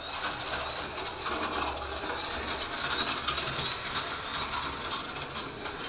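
HO-scale slot car's small electric motor whining as the car laps the track, its pitch rising again and again as it speeds up and dropping back.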